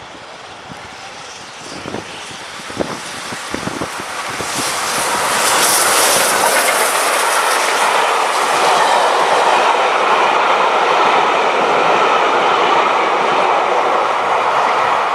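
A train approaches on the rails, growing loud about five seconds in and running past steadily, with a few knocks of the wheels early on.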